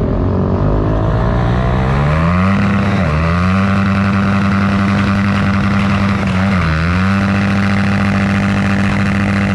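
Motorcycle engine revving up over the first two seconds, then held at a high, steady rev, dipping briefly twice before climbing back.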